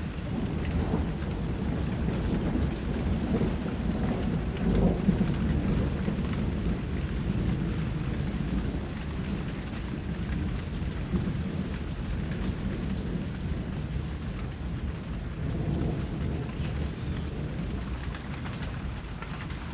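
Steady rainfall hissing and pattering, with a low rolling rumble underneath that swells and is loudest about five seconds in.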